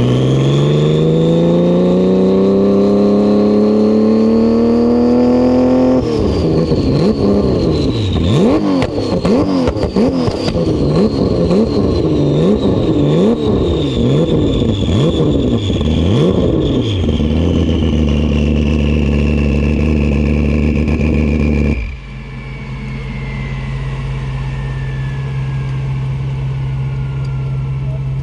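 Turbocharged Porsche GT3 Cup race car's flat-six engine at full throttle. It climbs steadily in pitch for about six seconds, then revs up and down roughly once a second through shifts and corners, then holds a steady drone. Near the end the sound drops suddenly to a low steady hum, with a thin high whistle falling slowly in pitch.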